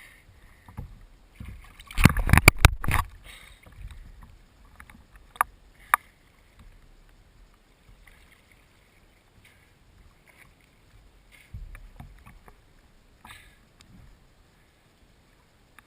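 Muffled sound of a motorboat ride, with a cluster of loud knocks about two seconds in and two sharp clicks a few seconds later.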